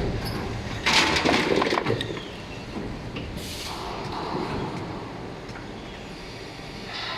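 Injection moulding machine running with a 16-cavity mould: steady machine noise, with a louder stretch of hissing and clicking about a second in that lasts about a second.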